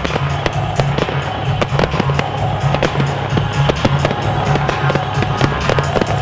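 Fireworks display: a fast run of aerial shells bursting, many sharp bangs and crackling reports every second. Loud music with a pulsing low beat plays underneath.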